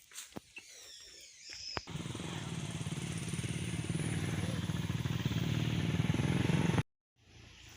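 A motor vehicle's engine running steadily, growing slightly louder, then cut off suddenly near the end.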